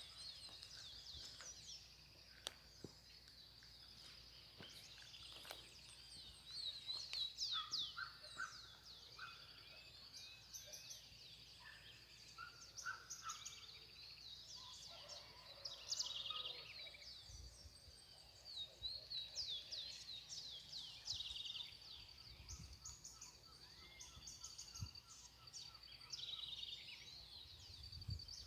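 Several wild birds singing and calling at once: many short, high chirps, trills and quick sweeps overlapping throughout, over a steady high trill.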